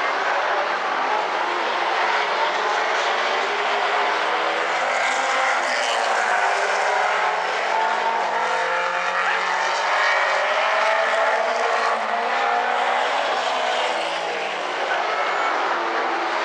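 Late model stock cars racing around the oval, several engines running hard at once, their pitch rising and falling as the cars pass and go through the turns.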